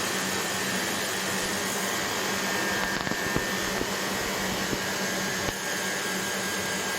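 Hoover HL500PT vacuum cleaner running steadily with its brush roll spinning on the higher carpet setting: a steady whine over the rush of air, working normally after its repair.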